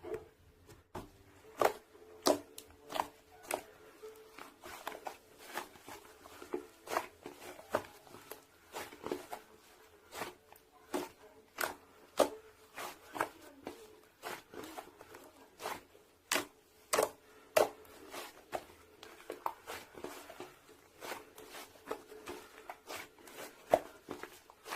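Slime being squeezed and pressed by hand, giving irregular sharp clicks and pops, about one or two a second.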